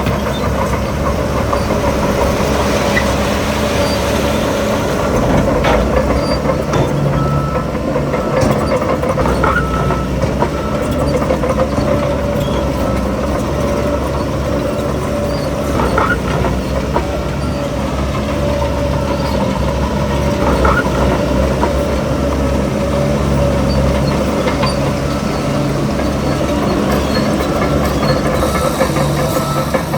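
Heavy diesel earthmoving machinery running steadily under load, with a few short metallic clanks.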